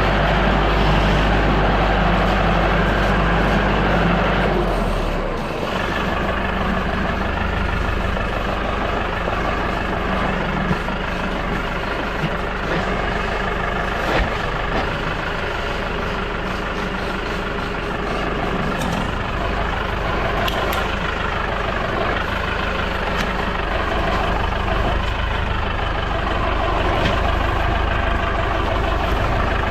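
Tractor engine running steadily, its pitch shifting down about five seconds in, with a few light knocks along the way.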